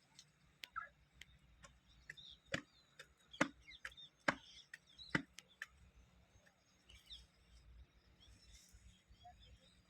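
A series of sharp snaps and cracks, with four louder ones about a second apart in the middle, over faint bird chirps.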